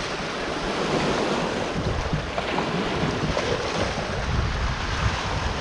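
Waves washing on the shore, with wind buffeting the microphone.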